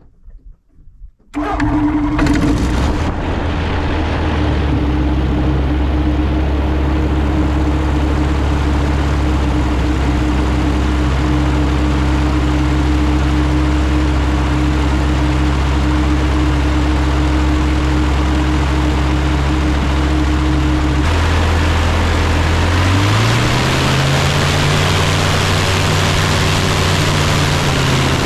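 Savannah ultralight's propeller engine starting about a second in, catching at once, then idling steadily; near the end the revs rise and settle at a higher steady speed.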